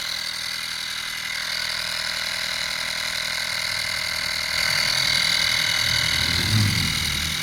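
Vaper 12-volt portable air compressor running steadily with a high whine, growing a little louder about two-thirds of the way in.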